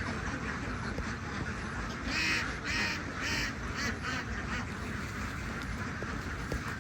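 Farm ducks quacking: a run of about five loud quacks roughly half a second apart, starting about two seconds in, over a steady low rumble.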